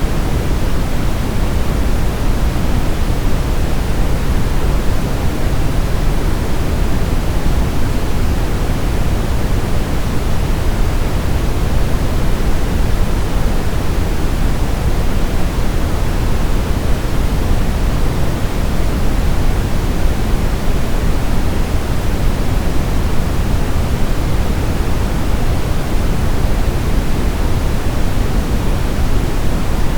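Steady brown noise: an even, unchanging hiss heaviest in the low end, like a deep rumble with softer highs.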